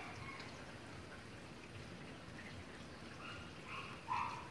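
Steady rain falling and dripping, with a dog barking a couple of times near the end.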